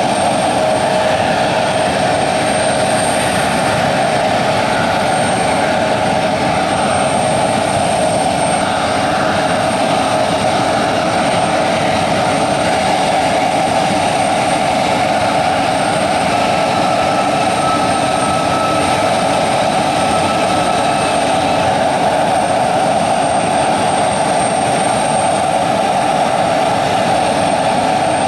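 Regional jet's turbofan engines running steadily at a constant level, with a thin high whine over the engine noise.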